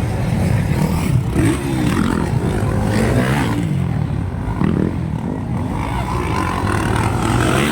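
Motocross bike engines revving on the track, their pitch climbing and dropping again and again.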